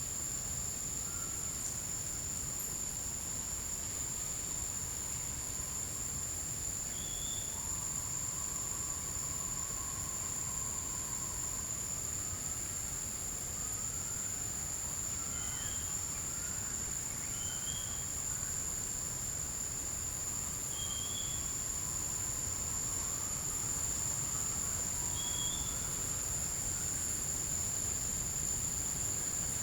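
Forest insects, likely crickets or cicadas, keep up a steady, continuous high-pitched drone. Over it, a bird gives short whistled notes at irregular intervals of a few seconds, with fainter, lower calls between them.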